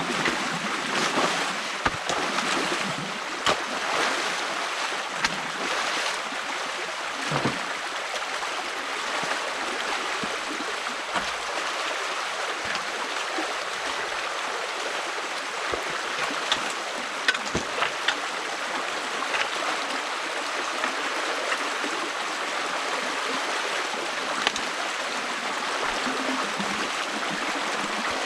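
Stream water rushing steadily through a beaver dam that is being opened by hand, with short knocks and clicks scattered through it.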